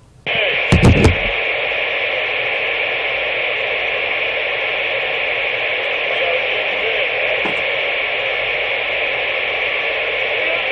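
CB radio receiver hissing with steady static, which switches on abruptly just after the start with a couple of low thumps about a second in, then holds even.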